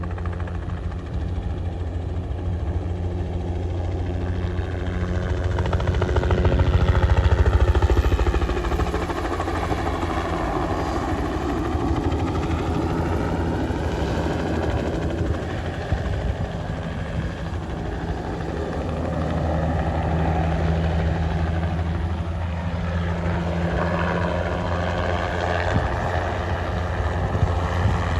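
Helicopter rotor and engine running steadily during crop-spraying passes. It grows louder to a peak about seven seconds in, then swells again later, with a sweeping, shifting tone as the aircraft moves.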